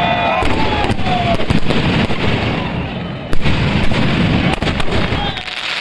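Fireworks going off: a dense run of crackling bangs and pops, with one louder bang a little past halfway.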